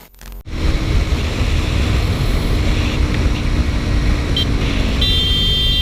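Motorcycle riding along: steady wind rush and engine noise on the rider's camera microphone. Near the end come a short high beep, then a high tone held for about a second and a half.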